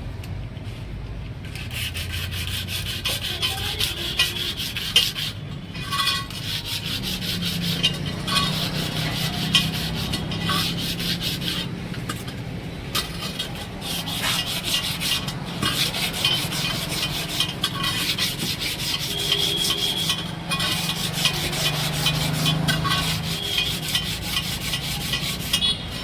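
Steady rough rasping and scraping during hand work on a tyre, with a few short breaks and the odd knock.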